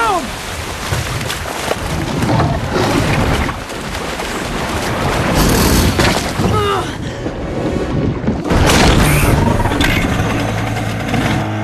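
Film action soundtrack: a loud, steady rush of floodwater under dramatic score, broken by several heavy booms and crashes.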